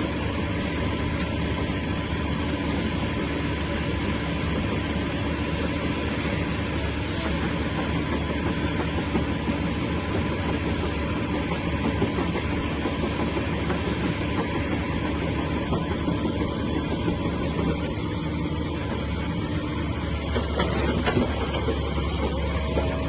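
Hyundai excavator's diesel engine running steadily.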